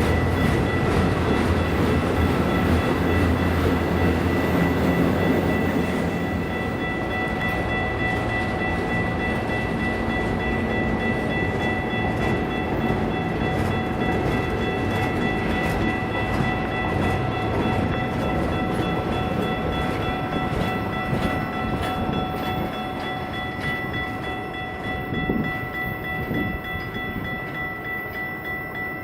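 Freight train's cars rolling past on the climb, a dense rumble and clatter with a steady high-pitched ringing held throughout. A heavy low rumble fills the first six seconds, then eases, and the whole sound fades slowly toward the end.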